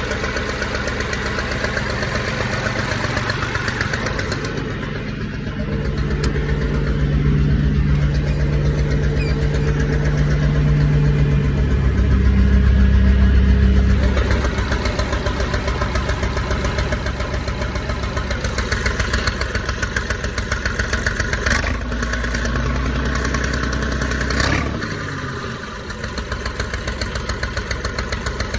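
Tractor diesel engine running, speeding up from about six seconds in to a peak a little past twelve seconds, then settling back. It drops briefly around twenty-five seconds before running on.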